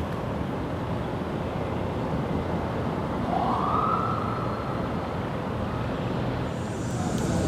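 A distant siren wails once, rising in pitch about three seconds in, then holding and fading, over a steady rushing noise.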